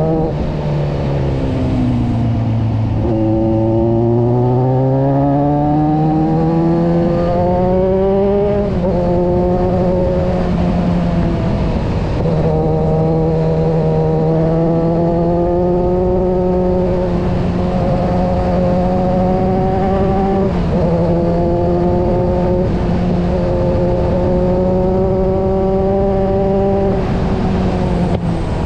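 Kawasaki motorcycle engine pulling along the road. The note eases down over the first couple of seconds, climbs for several seconds, then holds fairly steady, with brief dips about nine and twenty-one seconds in. Wind rushes over the microphone throughout.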